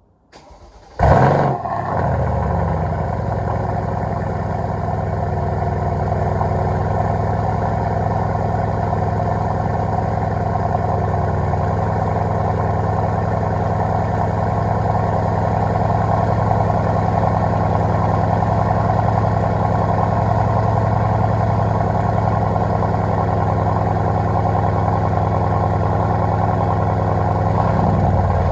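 Mercedes-AMG C63's twin-turbo V8 cold start: it catches with a loud flare of revs about a second in, then settles into a steady idle.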